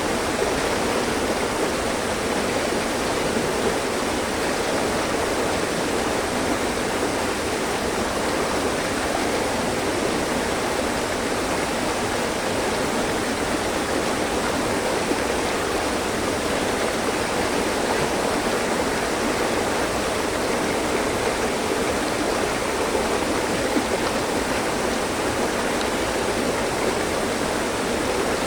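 Mountain stream: water rushing and splashing over rocks, a steady, even flow.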